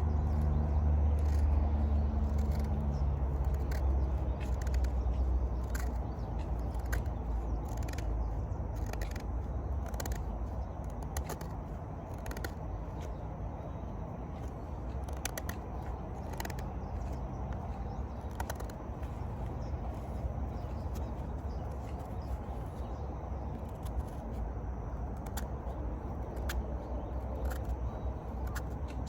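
Wood campfire crackling, with irregular sharp pops and snaps, over a low rumble that fades away during the first dozen seconds.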